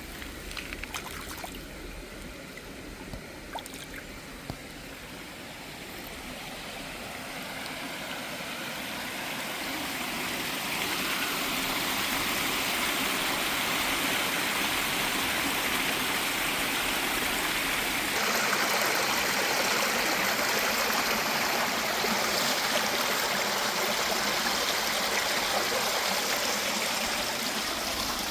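Running water of a stream, a steady rushing that grows louder over the first ten seconds or so, then holds steady. A few light clicks near the start.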